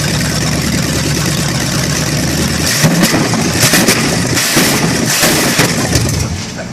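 Chevrolet 350 small-block V8 running on a test stand outside the car: a steady idle, then from about three seconds in the engine speed surges unevenly several times before easing off near the end.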